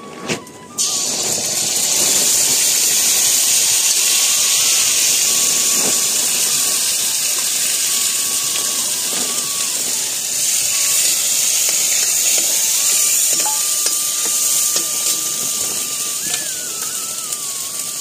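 Wet ground masala paste poured into hot oil in a kadhai, sizzling loudly from about a second in, the sizzle easing slowly as it fries.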